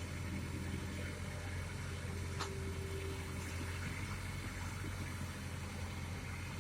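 Excavator's diesel engine running steadily with an even low hum, with one faint click about two and a half seconds in.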